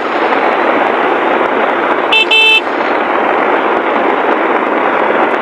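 Heavy rain pelting the vehicle's clear plastic windscreen, a steady loud hiss, with a vehicle horn beeping twice in quick succession about two seconds in.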